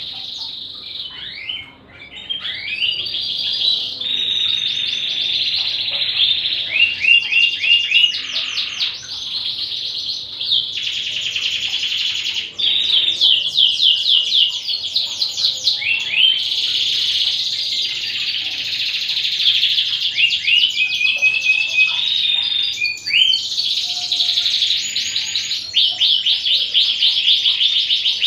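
Domestic canary singing a long, nearly unbroken song of fast trills and runs of quickly repeated notes.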